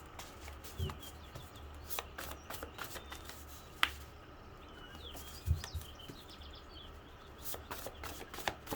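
Tarot cards being handled and shuffled: scattered soft clicks and rustles, with one sharper snap about four seconds in, over a low steady hum.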